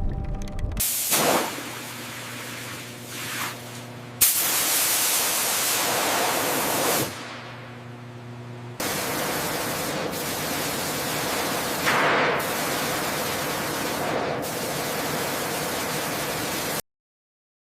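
Loud, steady hissing noise in several stretches that change abruptly, then cutting off suddenly to silence near the end.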